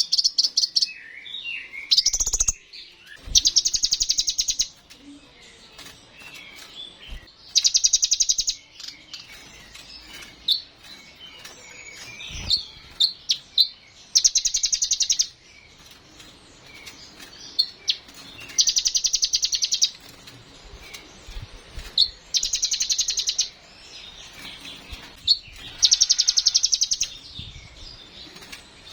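Olive-backed sunbird (kolibri ninja) singing: a loud, rapid, high trill of a second or so, repeated about every four seconds, with short, varied chirps and twitters between the trills.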